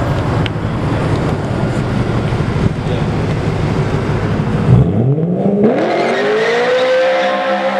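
Car engines making a loud low rumble, then about five seconds in one engine revs up hard, its pitch climbing steeply and holding high as the car accelerates away.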